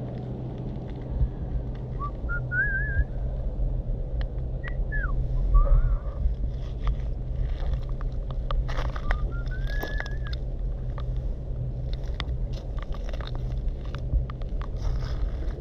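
A few short whistled notes that glide up in pitch, heard over a steady low hum and scattered sharp clicks.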